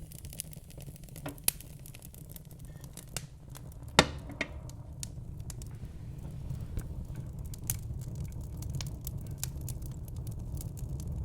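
Wood fire crackling in a fireplace: scattered pops and snaps over a steady low rumble, with one loud sharp pop about four seconds in.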